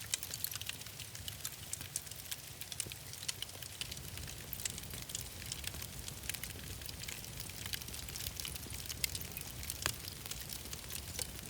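Wood fire crackling steadily in a fireplace, with many small snaps and pops over a soft hiss and a low rumble.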